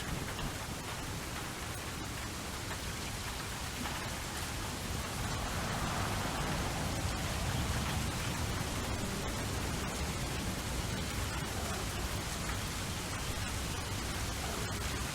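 Steady rainfall hissing, with a low rumble of distant thunder swelling up and fading through the middle.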